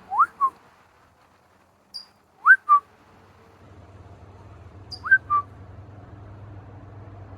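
A small wild bird's short, high chirps answered by a person's loud two-note whistle, a rising note followed by a lower held note, three times over.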